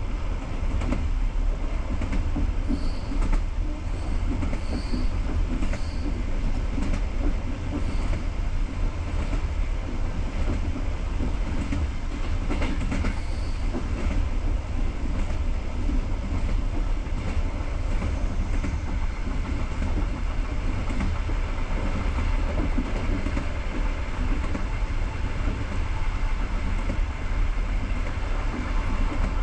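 Passenger train coach in motion on the rails, heard from inside: a steady low rumble of wheels on track, with light clicks as the wheels pass over rail joints.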